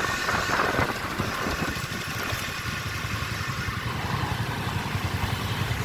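Motorbike engines running in dense street traffic, a steady low rumble.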